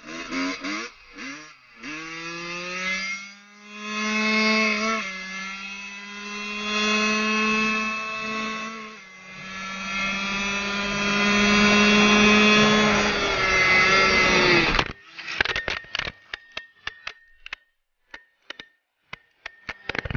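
Dirt bike engine accelerating hard, its pitch climbing with brief dips about two, five and nine seconds in, then cutting off abruptly about fifteen seconds in. Scattered sharp clicks and knocks follow.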